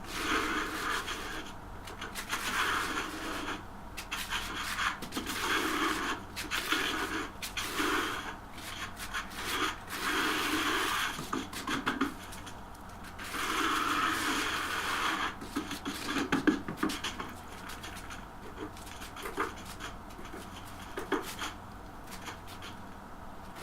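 Repeated hand rubbing strokes during tile work, each about a second long and one to two seconds apart, giving way to occasional small ticks in the last few seconds.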